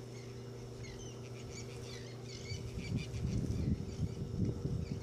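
Small birds chirping repeatedly in short high notes over a steady low hum, with an irregular low rumble joining about halfway through and growing louder.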